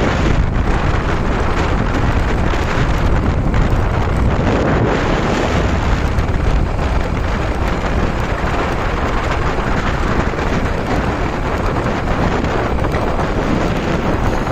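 Wind buffeting the microphone of a moving motorcycle: a loud, steady rush with a low rumble underneath.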